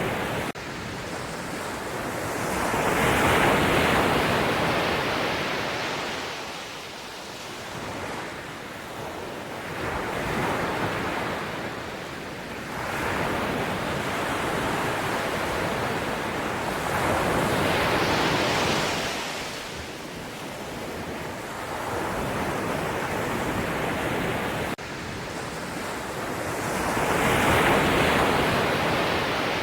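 Ocean waves breaking and washing up the shore, a steady rush of surf that swells and fades about every seven seconds, four surges in all.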